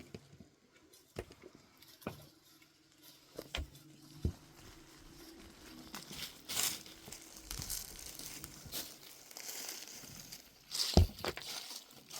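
Rustling and crinkling handling noise with scattered sharp knocks; the loudest knock comes near the end.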